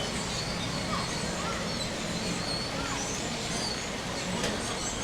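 Outdoor ambience of small birds chirping high and often over a steady low rumble of wind on the microphone, with faint indistinct voices underneath.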